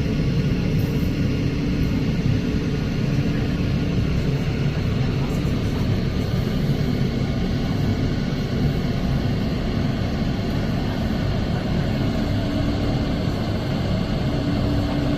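New York City subway car running on the line, heard from inside the car: a steady deep rumble with a constant droning hum over it.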